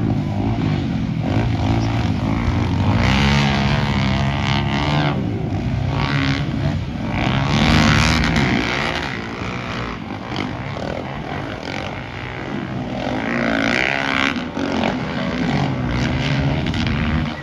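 Motocross dirt bike engines revving hard, their pitch rising and falling through gear changes, with louder swells as bikes pass.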